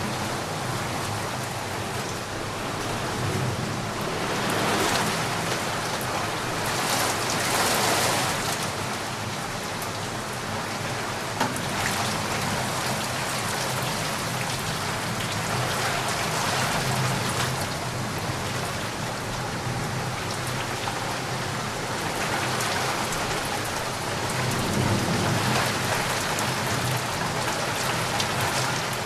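Steady rain falling, an even hiss with individual drops ticking, swelling and easing every few seconds.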